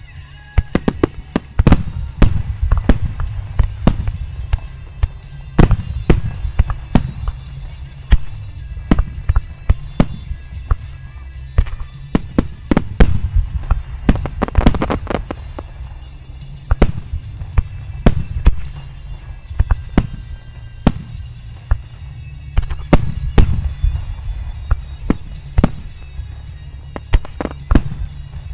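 Starmine fireworks barrage: shells bursting in quick succession, sharp bangs in clusters over a continuous low rumble, with music playing along beneath.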